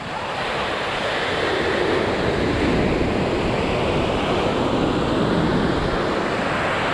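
Ocean surf breaking and washing up the beach: a steady rushing roar that swells up at the start and stays strong throughout.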